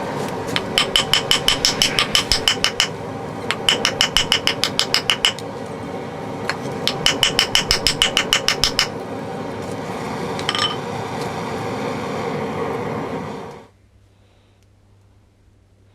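Rapid, evenly spaced metal-on-metal strikes with a ringing tone, in three runs of about seven strikes a second, over a steady machine running underneath. The machine cuts off near the end.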